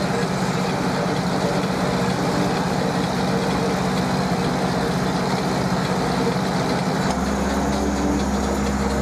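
Zetor Crystal tractor's diesel engine running steadily. About seven seconds in, its note changes and a deeper low drone sets in.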